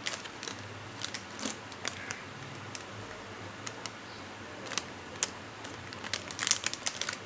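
Hands rubbing salt and turmeric into raw fish pieces in a bowl: irregular wet clicks and light knocks, thickening into a quick flurry near the end.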